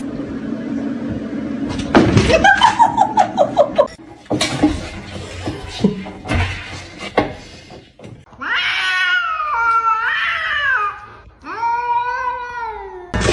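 A cat meowing: a long wavering meow about two-thirds of the way in, then a shorter one near the end, after a stretch of quick pulses and clicks.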